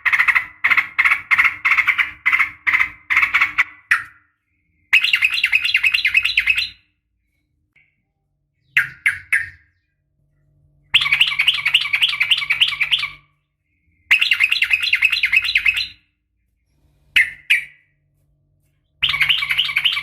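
Yellow-vented bulbul (trucukan) calling in rapid-fire chattering bursts, the "ropel" calls that keepers play to rouse their birds into answering. Each burst is a fast run of bright, repeated notes lasting one to two seconds, with short pauses between them.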